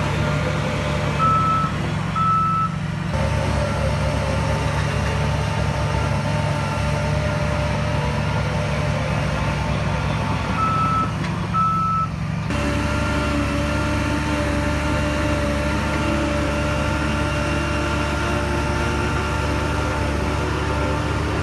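Heavy diesel earth-moving machinery running steadily. Two short high beeps sound about a second in, and two more about ten seconds in. About twelve seconds in, the engine note shifts to a new steady pitch.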